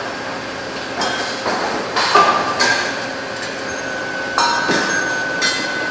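A series of hard metallic knocks and clinks, about six spread over several seconds. Some leave a ringing tone; one, about two-thirds of the way in, rings on steadily.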